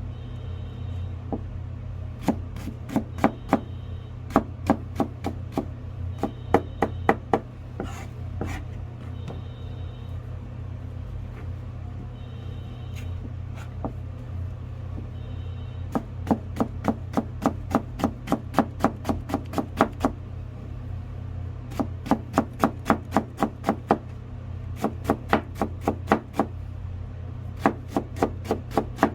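Kitchen knife chopping on a cutting board while julienning: quick, even runs of strokes, about four a second, in several bursts with pauses between, over a steady low hum.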